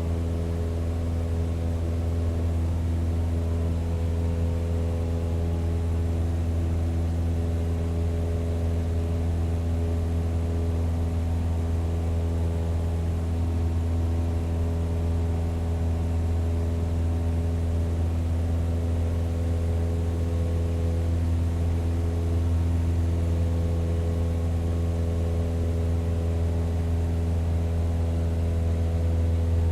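Propeller plane's engine running with a steady low drone, with several steady tones above it, getting slightly louder near the end.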